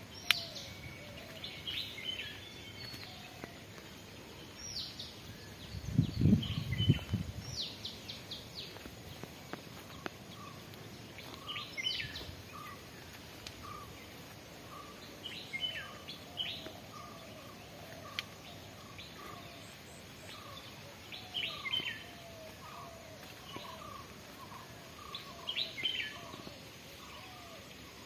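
Birds calling outdoors: short, bright chirping phrases every few seconds over a steady series of short, lower repeated calls, about two a second. A brief low rumble about six seconds in is the loudest sound.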